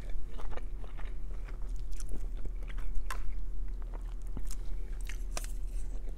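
Close-miked chewing of chow mein noodles: scattered soft, wet mouth clicks and smacks, over a steady low hum.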